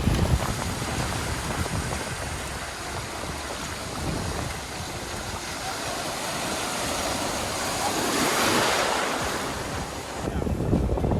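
Sea surf washing in and out, with wind buffeting the microphone; a wave rushes in louder about eight seconds in, then falls back.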